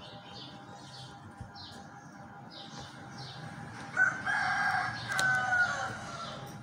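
Birds calling: a small bird's short high chirps repeat two to three times a second, and a louder, longer call of about two seconds comes in about four seconds in.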